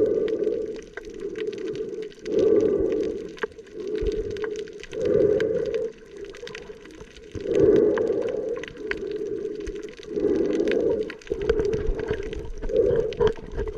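Underwater sound while snorkelling: muffled, rhythmic breathing through a snorkel, swelling about every two and a half seconds, with scattered crackling clicks in the water.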